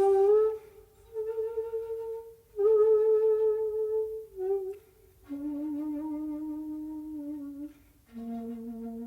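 Solo shakuhachi (end-blown bamboo flute) playing slow, long held notes separated by short breaths. The phrase steps down to two lower, softer notes in the second half.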